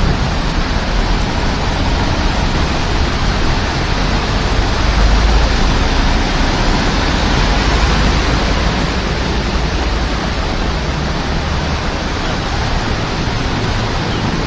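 Heavy rain falling as a steady, loud hiss, with a low rumble underneath.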